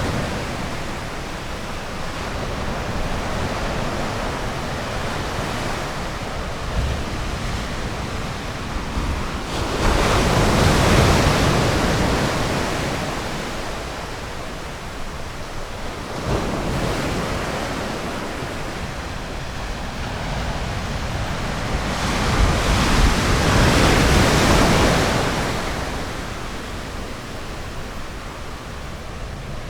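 Ocean surf washing onto a beach: a steady hiss of water that swells twice, about a dozen seconds apart, as waves break and then ebb.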